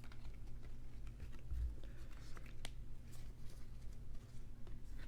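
Faint handling noises of trading cards being moved about on a table: soft rustles and light clicks, with one sharper click a little past the middle, over a low steady hum.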